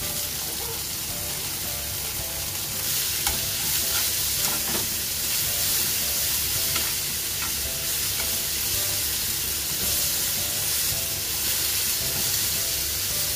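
Sliced onion, green pepper and sausage sizzling in olive oil in a frying pan as they are stir-fried with chopsticks. The sizzle grows louder about three seconds in, with a few light clicks of the chopsticks against the pan.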